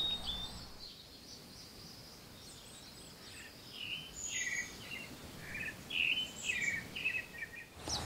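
Small birds chirping: a string of short, high calls starting about two and a half seconds in, over faint garden background.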